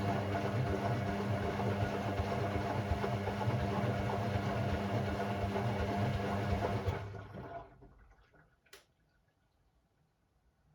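Hoover Sportswear 1300 AI130 washing machine running with a steady motor hum and churning for about seven seconds, then winding down and stopping, followed by a single sharp click.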